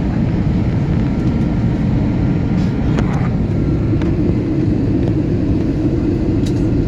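Steady roar of an airliner cabin on approach: jet engine and airflow rumble, heavy in the low end, with a faint steady high hum and a few light clicks of cabin rattle.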